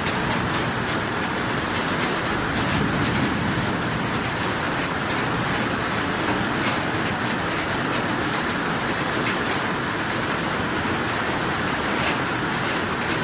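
Heavy rain with road traffic moving through it: a steady hiss of rain and tyres on a wet road, with scattered sharp ticks of drops striking.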